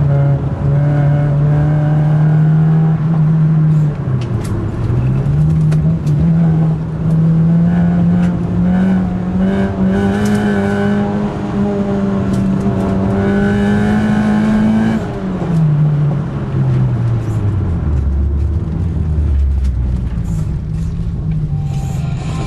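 Modified Suzuki Swift's engine heard from inside the cabin while driving. It holds a steady note, dips briefly about four seconds in, then climbs slowly. About fifteen seconds in it falls away to a low note as the car slows. Occasional sharp knocks and rattles come over it.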